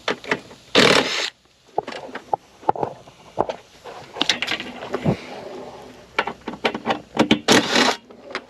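Metal clicks, knocks and scrapes from bolts being worked loose on a refrigerator's compressor mounting, with two short bursts of rasping noise, one about a second in and one near the end.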